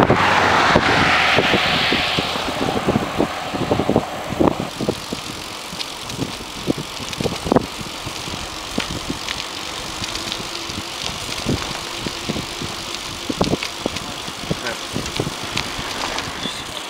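Bicycle being ridden along a trail: a rush of wind on the microphone for the first couple of seconds, then a steady run of irregular knocks and rattles as the bike goes over bumps.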